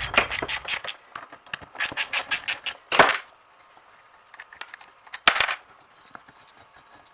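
Rapid clicking, clinking and scraping of hand tools and parts being worked on, with two louder scrapes about three and five seconds in.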